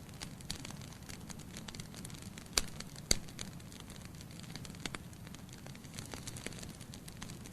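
Wood fire burning logs in a fireplace: a low steady rumble of flame under constant small crackles, with two louder pops about half a second apart near the middle.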